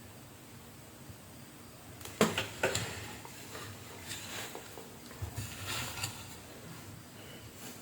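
Handling noise on a workbench: two sharp clicks about two seconds in, then a couple of seconds of rustling and light knocks.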